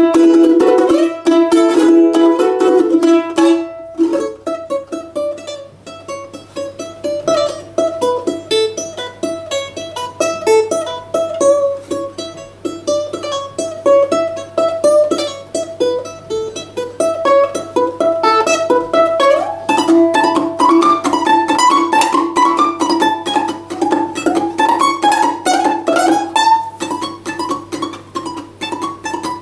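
Solo balalaika playing a folk tune. It opens with a loud tremolo held on one note, which breaks off about four seconds in. Quieter quick plucked notes follow, and a fast run of higher notes comes in the last third.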